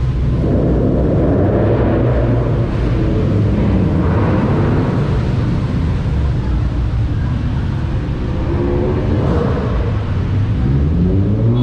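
Car engine running with a steady low rumble; near the end its pitch rises as it accelerates.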